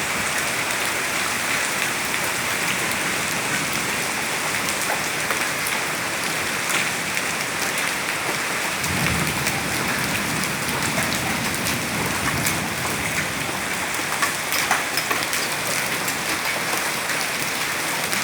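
Heavy storm rain pouring down steadily, with many sharp drop impacts on hard surfaces. A low rumble of thunder comes about halfway through.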